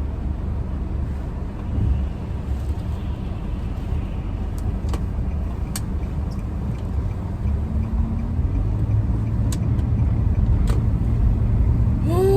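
A car driving slowly on snowy roads, heard from inside the cabin: a steady low rumble of engine and tyres that grows a little louder in the last few seconds, with a few faint clicks.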